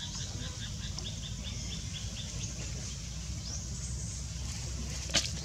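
A small bird chirping in a quick repeating series, about five chirps a second, that fades out about halfway through, over a steady low rumble. A single sharp click comes near the end.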